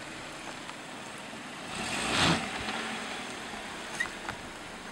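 Car engine running at low speed while the car creeps over a rocky track, with a loud rush of noise about two seconds in and a sharp click near the end.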